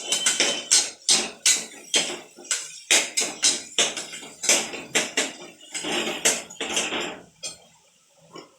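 Metal spoon knocking and scraping against a cooking pot in quick repeated strokes, about two or three a second, as the contents are stirred and sautéed. It ends with two longer scrapes and stops near the end.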